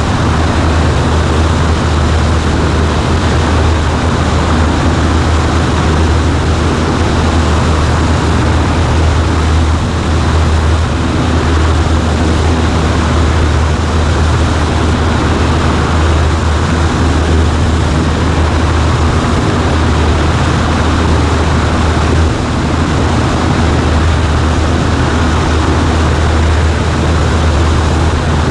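Cessna 140A's piston engine and propeller running steadily, a loud, even low drone over a rushing noise.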